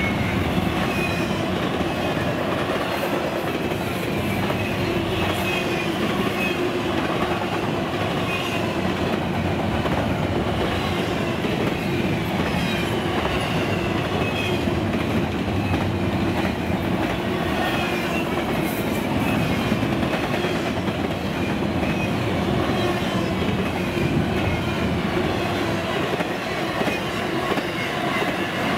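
Double-stack intermodal container train rolling past: a steady rumble and clatter of steel wheels on the rails as the well cars go by.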